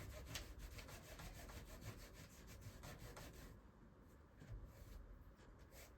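Faint rubbing with light clicks and taps from handling a clear stamp and paper on a craft table, busiest in the first three and a half seconds, then quieter.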